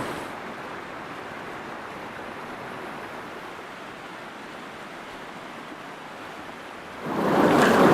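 A rocky river rushing steadily, an even, unbroken noise of flowing water. Near the end a louder rush of noise comes in.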